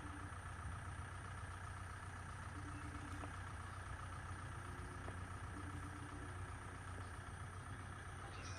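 An engine idling steadily, with a faint tone that comes and goes about every three seconds.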